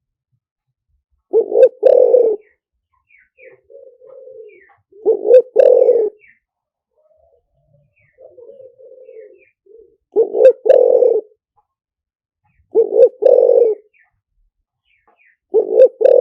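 Spotted dove cooing: five loud coo phrases a few seconds apart, each a quick short note run straight into a longer coo, with softer coos in between. A lure call for drawing in wild spotted doves.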